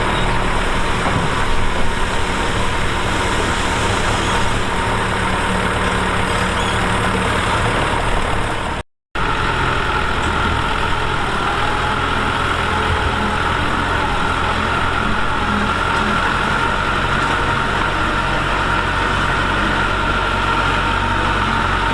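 Heavy diesel engines of earthmoving machinery running steadily, with a brief total dropout about nine seconds in where the footage is cut.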